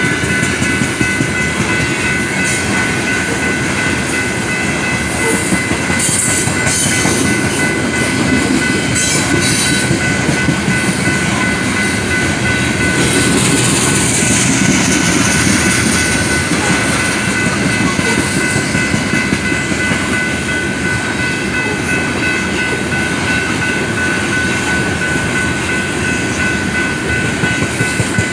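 Train rolling past on the rails, its cars rumbling and clacking steadily, with two steady high ringing tones throughout.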